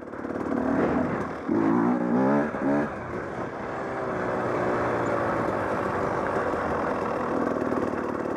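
Dirt bike engine revving up and down several times in quick succession, then running at a steady pitch as the bike rides on.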